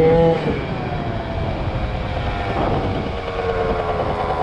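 Yamaha ZR Evo two-stroke scooter engine revving hard, then backing off about half a second in, its pitch sliding slowly down as the throttle eases.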